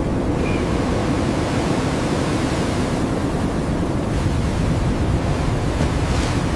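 Steady rushing wind noise of a blizzard, with no break or change.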